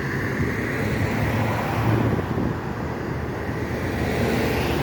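Heavy truck running on the highway: a steady low engine drone under tyre and road noise that swells and fades.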